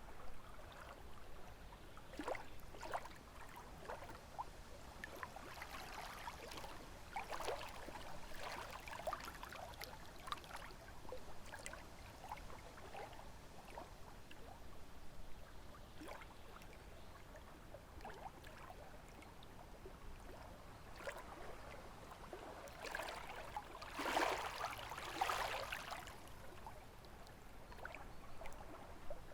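Small lake waves lapping and splashing at the shore in irregular washes, the strongest swell coming near the end.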